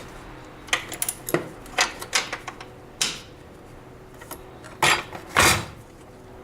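Wrench clinking and knocking against a bolt and the metal suspension parts of a snowmobile as a tight bolt is worked loose: a string of sharp metallic clicks with two longer, louder noises around three and five and a half seconds in.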